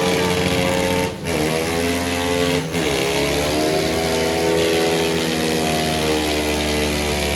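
Pit bike engine held at high revs, with two brief drops in revs, about a second and about two and a half seconds in, each climbing straight back up.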